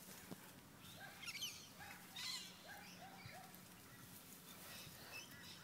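Faint bird calls: scattered high, quick chirps mixed with a short, arched lower note repeated several times.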